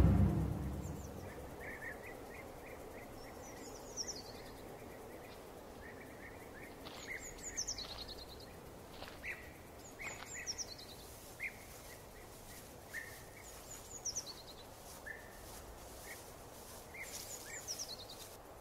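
Birds singing over a steady outdoor background hiss. A short, high, descending phrase comes back every three to four seconds, with lower single chirps in between.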